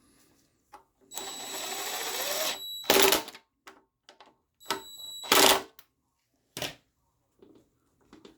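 Small electric power tool, such as a drill-driver on the engine's bolts, running in two short bursts with a steady high whine, each ending in a loud clatter, then a sharp click.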